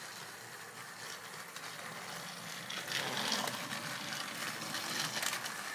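Battery-powered TrackMaster toy engines running on plastic track, their small motors and gears whirring and rattling steadily, a little louder from about three seconds in.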